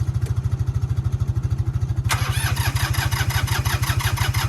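An engine runs steadily with a rapid low pulse. About two seconds in, a louder, rapid rattling clatter starts suddenly over it and keeps going.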